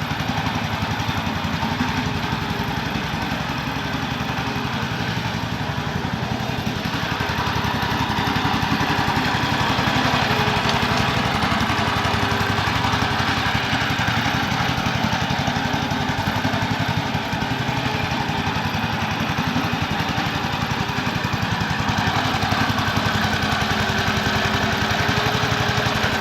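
Single-cylinder four-stroke ZiD 4.5 engine on a homemade mini tractor running steadily on its first start, getting a little louder about eight seconds in.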